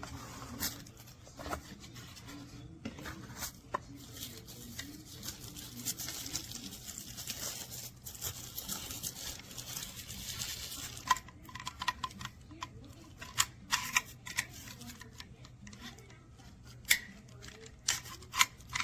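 Hands handling objects: scattered clicks and taps, with a stretch of rustling from about five to eleven seconds in and a run of sharper clicks after that.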